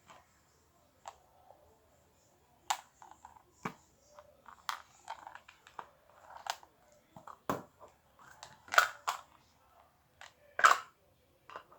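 Slime being squeezed and poked by hand, giving irregular sharp clicks and small wet pops, a few louder pops near the end.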